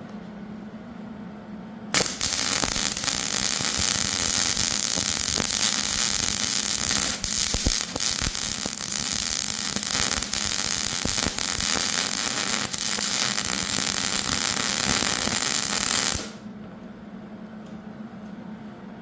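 Electric arc welding on steel plate: a steady, loud crackling sizzle of the arc that starts abruptly about two seconds in and cuts off sharply about three seconds before the end, with a few brief breaks. It is filling bullet dents in a 3/8-inch AR steel target plate.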